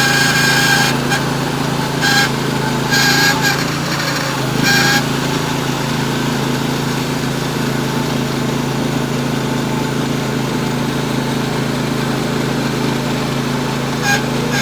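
Norwood HD36V2 band sawmill running steadily under load, its engine holding an even pitch as the blade cuts through a wide poplar log. A few short high squeaks sound over it in the first five seconds, and once more near the end.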